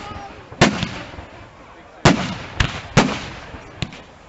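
Fireworks display: aerial firework shells bursting with sharp bangs, five at uneven intervals over about four seconds, each one trailing off in echo.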